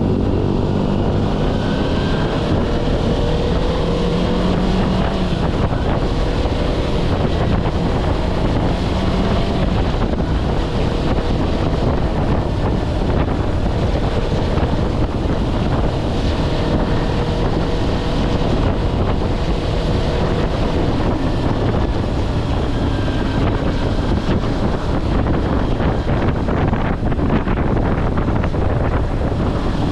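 Kawasaki Versys-X 250's parallel-twin engine running steadily under way, mixed with heavy wind noise on the microphone.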